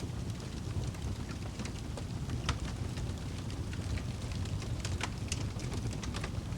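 Wood fire burning in a fireplace: a steady low rumble of flames with scattered sharp crackles and pops, a few louder ones about two and a half seconds and five seconds in.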